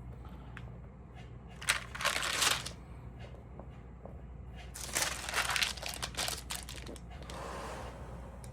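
Stamp album pages being handled and turned, with two crinkling rustles of paper or plastic sleeves and a softer rustle near the end, over a steady low hum.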